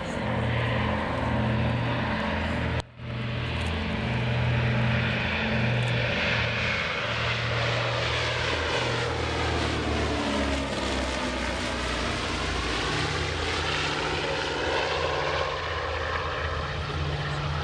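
Consolidated PBY Catalina flying boat's twin Pratt & Whitney R-1830 radial piston engines droning steadily as the aircraft flies past, the tone slowly sweeping as it passes. The sound cuts out briefly about three seconds in.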